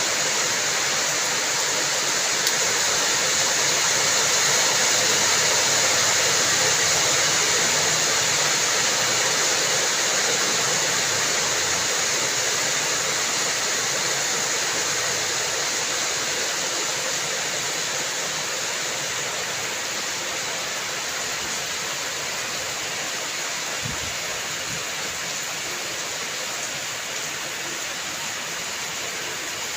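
Steady rain, an even hiss of falling water, slowly getting a little quieter.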